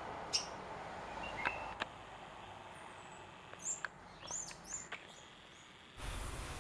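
Small birds giving short, high chirps: one about half a second in, then a quick cluster of four or five between about three and a half and five seconds, over a faint steady background hiss. Near the end the background noise suddenly becomes louder and fuller.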